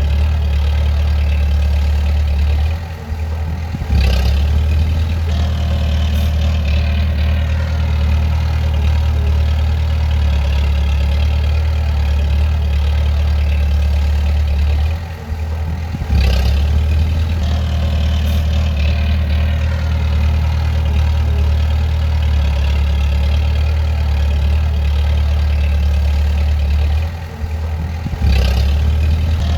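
Bulldozer's diesel engine running steadily with a deep hum. Three times it drops off briefly, and each time a short knock follows as it comes back.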